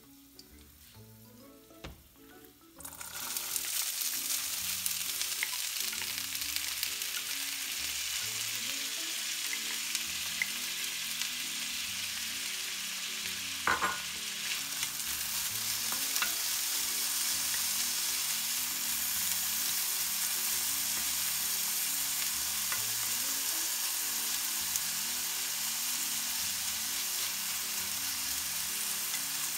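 Food hitting hot oil in a pan about three seconds in, then sizzling and frying steadily, with one brief clatter about halfway through. Soft background music runs underneath.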